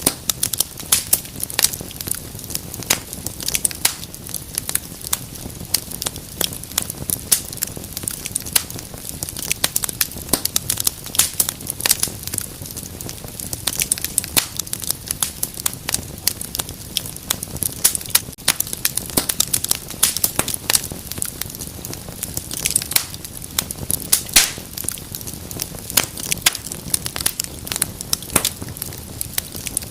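Wood fire in a fireplace crackling: a dense, irregular run of sharp pops and snaps over the low hiss and rumble of the flames.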